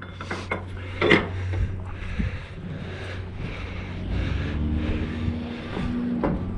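Truck engine idling steadily as a low hum, with a sharp knock about a second in.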